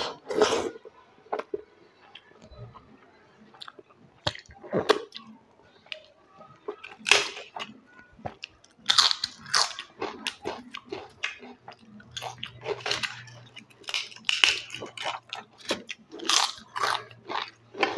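Close-up eating sounds: a person chewing and biting into crisp fried potato papad and chips, with irregular clusters of sharp crunches that come thicker in the second half.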